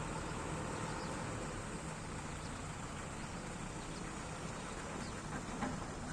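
Steady rumble and hiss of a Boeing 737 MAX 8 airliner, with a small knock about five and a half seconds in.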